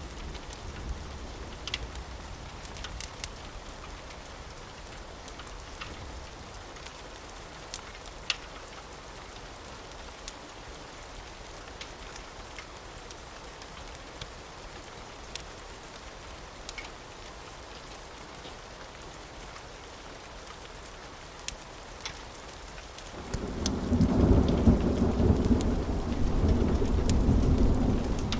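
Steady rain with scattered sharp pops. About 23 seconds in, a loud rolling rumble of thunder swells up and keeps going.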